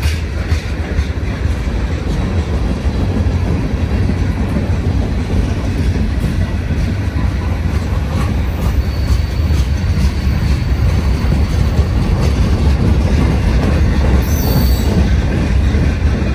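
Freight train rolling along the rails: a loud, steady rumble of wheels and cars, with a few clicks near the start and a brief high wheel squeal near the end.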